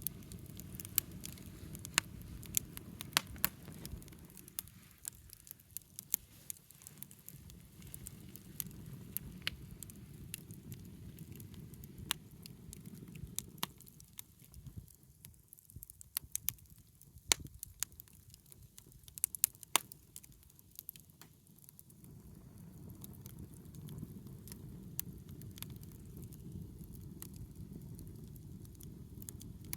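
Wood fire crackling, with irregular sharp pops and snaps over a low rushing sound that fades out twice and comes back.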